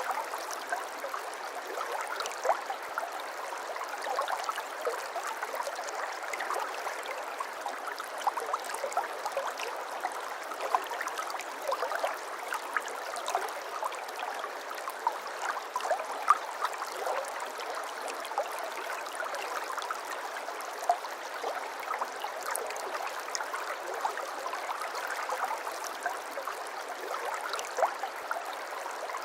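Water flowing steadily in a small stream, with many small quick splashes and trickles and no deep rumble.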